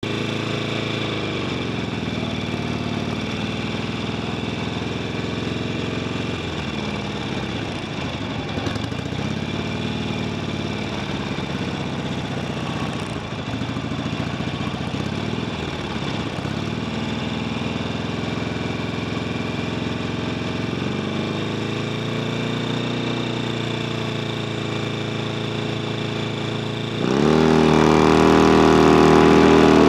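2009 Harley-Davidson Sportster's V-twin engine held at the drag strip start line, idling and revved up and down in slow swells. Near the end it launches: a sudden jump in loudness and the revs climb steeply as the bike accelerates hard.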